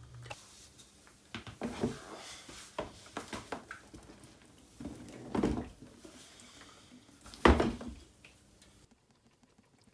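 Scattered knocks and clatter of metal parts being handled in a small workshop, with two louder clunks about five and a half and seven and a half seconds in.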